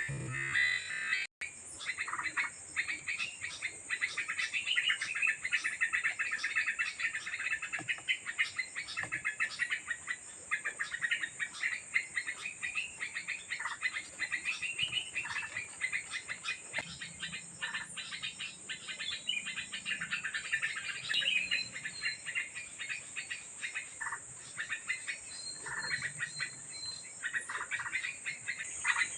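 Many small birds chirping in quick, dense runs, with a steady high-pitched insect drone underneath.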